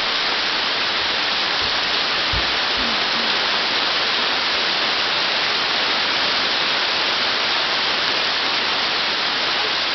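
Hail and heavy rain coming down hard and steadily, a dense unbroken hiss of hits. A brief low thump sounds about two and a half seconds in.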